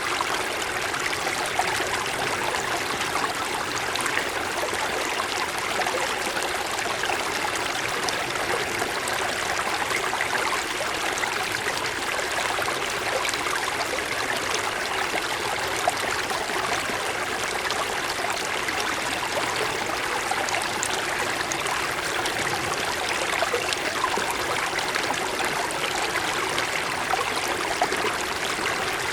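A mountain stream flowing over snow-covered stones: a steady rushing and babbling of water with small irregular splashes and trickles.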